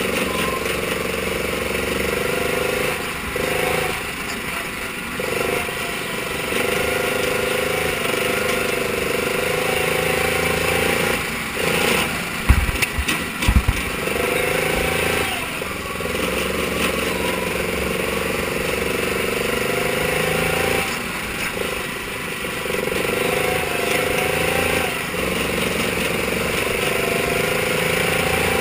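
Mini sprint car engine running hard, its steady note briefly dropping away every few seconds as the throttle comes off and then picking back up. There are a few sharp thumps about halfway through.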